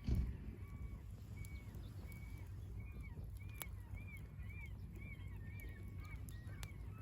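Many short, repeated bird calls overlapping over a steady low rumble, with the occasional sharp crack from a burning campfire. A dull thump right at the start is the loudest sound.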